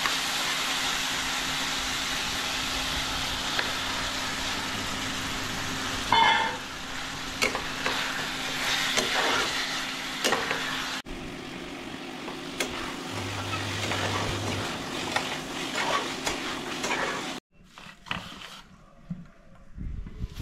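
Chicken curry with potatoes and tomatoes sizzling in a frying pan as a spatula stirs and scrapes through it. The sizzle cuts off suddenly near the end.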